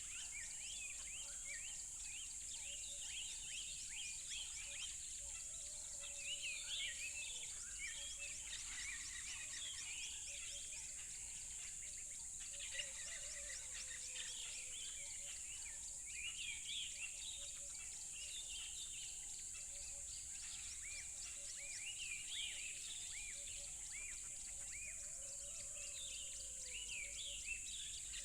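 Many songbirds chirping together in a dense chorus of short, quick chirps that swell and ease in waves, over a steady high-pitched hiss.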